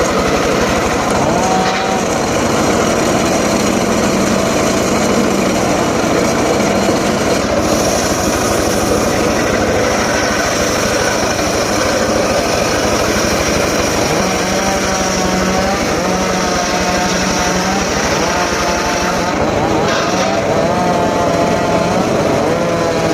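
A small engine-driven saw running continuously, its engine pitch wavering up and down as it works.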